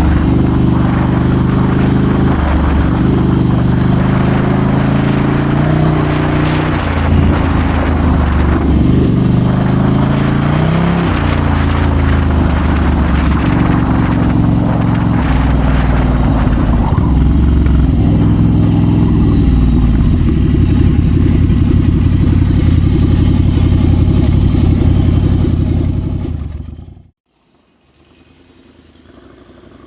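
Ducati Scrambler's air-cooled L-twin engine pulling under way, its pitch stepping up and dropping back as the rider changes gear. The sound fades out near the end, then a much quieter engine sound starts.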